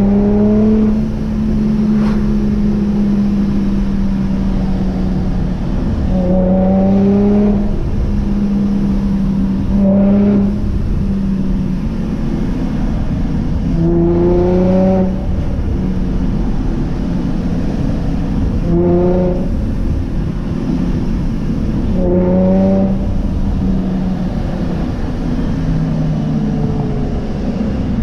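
Vortech-supercharged Nissan G35's 3.5-litre V6, breathing through aftermarket headers and exhaust, driving on the road with a steady drone and about seven short accelerations, the engine pitch rising in each pull before dropping back.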